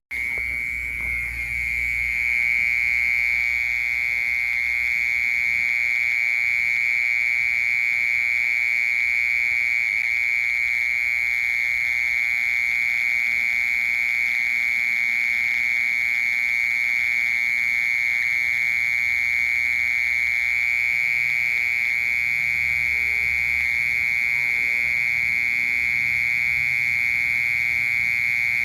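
A cricket singing: one continuous, unbroken high-pitched trill that holds steady at the same pitch and loudness.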